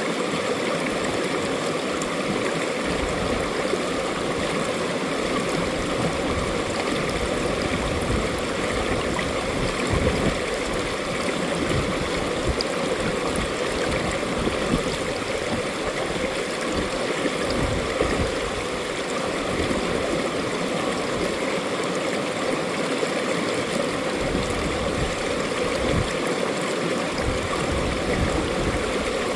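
Mountain valley stream flowing steadily over rocks, a continuous rushing and gurgling of water.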